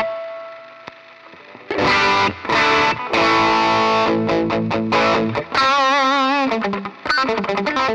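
Electric guitar played through a DemonFX Gravity distortion pedal. A chord rings and fades away, then distorted chords are struck; about six seconds in, a held note wavers with wide vibrato, followed by quick single notes near the end.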